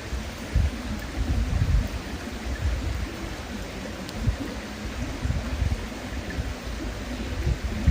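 River flowing with a steady rushing sound, over an uneven low rumble, and one faint crackle from the bonfire about four seconds in.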